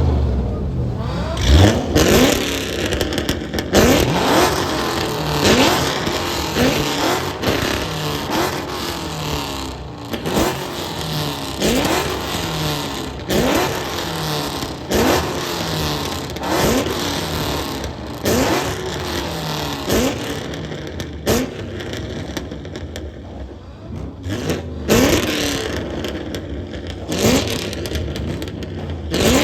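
Car engine revved in short repeated blips, about one every second and three quarters, each a quick rise in pitch, with a lull a little after twenty seconds in.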